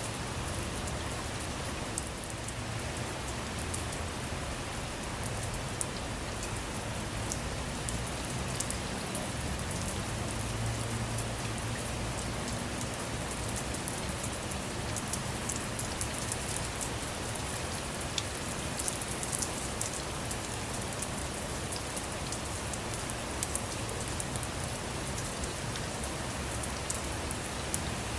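Steady rain falling on a vehicle, with many individual drops ticking close by.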